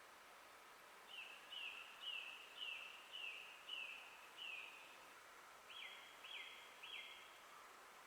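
A songbird singing faintly: a run of seven short falling notes, about two a second, then after a short pause three different notes, over a steady faint hiss.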